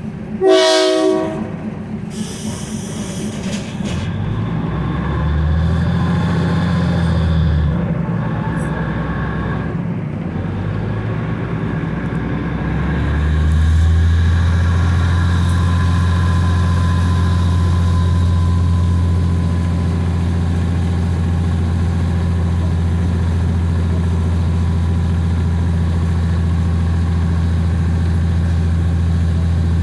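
Diesel locomotive of a passenger train gives one short horn blast, then its engine works up in power a few seconds in and again around halfway, settling into a steady, loud, low drone.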